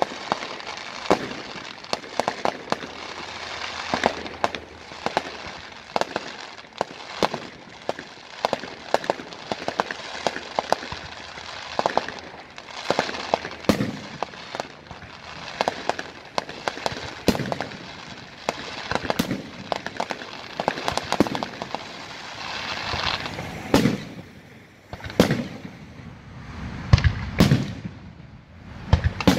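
Aerial fireworks display: a rapid, irregular series of sharp bangs and crackles from bursting shells, with several heavier, deeper booms near the end.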